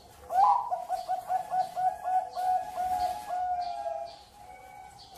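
Zebra dove (perkutut) singing: a quick run of about a dozen looping cooing notes, about five a second, ending in a longer drawn-out note. Other doves coo faintly behind it.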